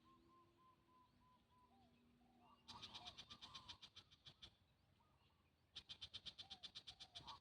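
Birds singing in a garden: two bouts of a fast, high trill of rapidly repeated notes, each lasting about a second and a half. Before them comes a faint run of short, lower notes, and soft chirps sound in the background.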